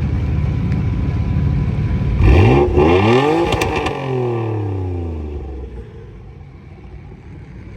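Car engine running low and steady, then revving hard and accelerating about two seconds in, its pitch climbing steeply with a few sharp pops. The pitch then slides back down and fades out as the car pulls away.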